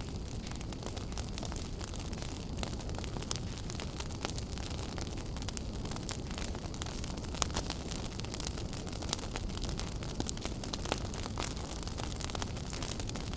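Wood fire burning in a fireplace: a steady low rumble of flames with irregular sharp crackles and pops, a few louder pops in the middle.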